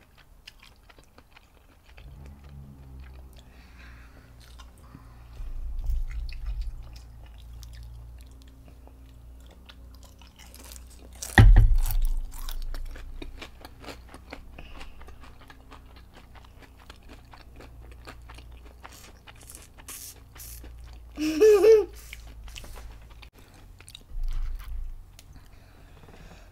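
Close-miked chewing of crunchy fried, battered shrimp: a run of small crackling crunches over a low mouth rumble, with a loud sharp crunch about eleven seconds in. A short voiced sound is heard about two-thirds of the way through.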